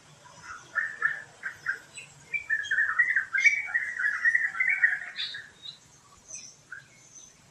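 Birds calling in the forest: a few short chattering calls in the first two seconds, then a longer unbroken chatter for about three seconds that stops a little after the middle. Faint high chirps from other birds carry on around it.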